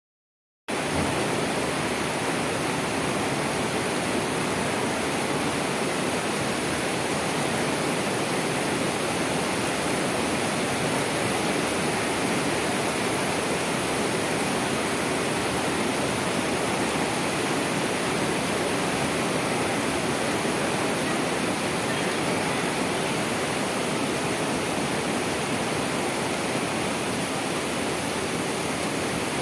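Rain with wind: a steady, even rushing hiss that starts abruptly within the first second and holds at one level.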